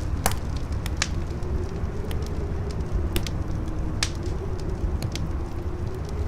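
Howling wind, a low moan that slowly wavers up and down over a deep steady rumble, with a crackling fire giving sharp pops about once or twice a second.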